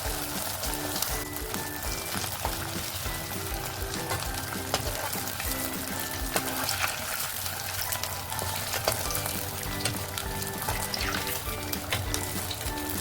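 Dough pinwheels stuffed with potato and chicken, frying in oil: a steady sizzle with scattered small pops. Background music with a steady beat plays under it.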